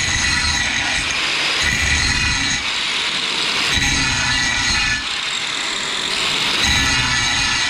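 Flux-core arc welding on steel with a wire-feed welder: a steady, loud crackling hiss from the arc, swelling and easing every second or two.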